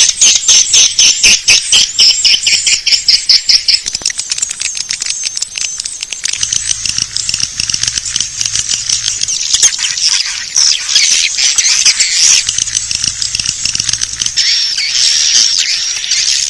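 Recorded chorus of edible-nest swiftlets: dense high chittering and twittering calls over rapid dry clicks, the clicks thickest in the first few seconds and the twittering turning to wavering trills later. This is a swiftlet-calling lure sound, played to draw swiftlets into a nesting house.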